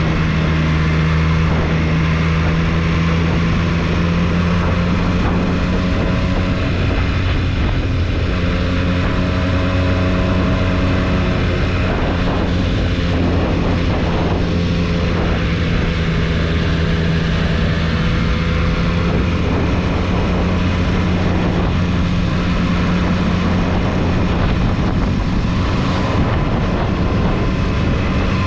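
2022 Triumph Street Triple 765 RS's 765 cc inline three-cylinder engine running at fairly steady revs while riding, with only small rises and falls in pitch.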